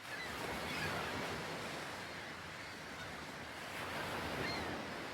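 Steady outdoor wind and sea noise: wind buffeting the microphone over the wash of ocean water, with a few faint short high chirps.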